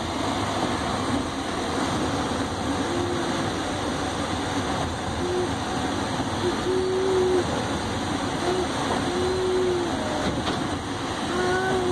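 Passenger train coach running along the track, heard from inside: a steady, even rolling noise of the moving train.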